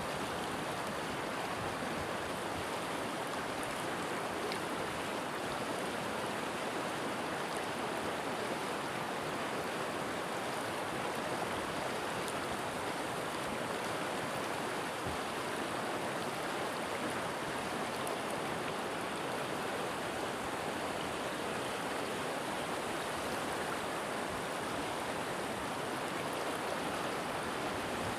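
River water flowing and rushing over rocks in a steady, even wash of noise.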